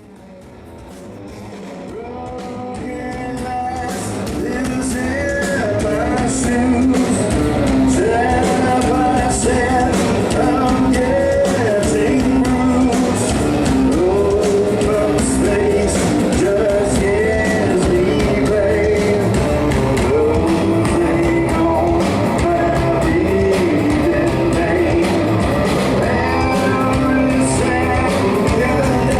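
Rock trio playing live: electric guitar over bass and a steady drum beat. The sound swells up from quiet over the first several seconds, then holds at full volume.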